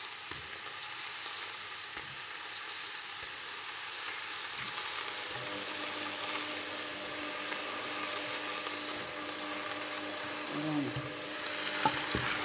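Chicken and onions frying in a pot with a steady sizzle. Near the end a plastic spatula stirs them, with a few light knocks against the pot.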